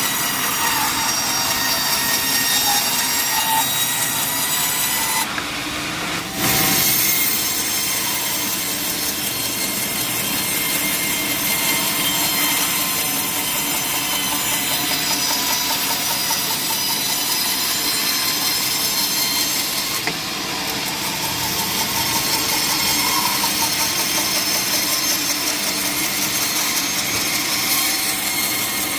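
Sawmill saw cutting through wood: a steady, continuous rasp with a high ringing whine, dipping briefly about five seconds in and again about twenty seconds in.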